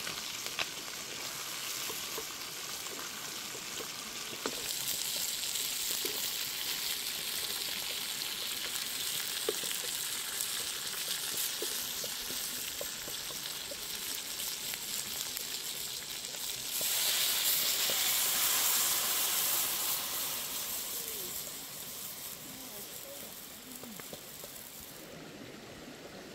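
Whole chicken frying in hot chilli-garlic oil in a metal wok, sizzling steadily. The sizzle grows louder about five seconds in, is loudest around two-thirds of the way through, and turns quieter near the end.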